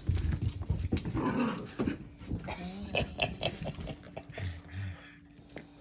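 Puppies playing with a ball: short dog cries among scrabbling clicks and light knocks, dying down for the last second or so.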